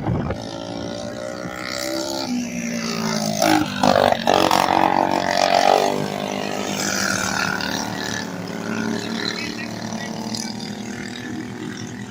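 Several small racing engines running on the track, their pitch rising and falling as they rev and pass; the loudest pass comes about four to six seconds in, then the sound eases off.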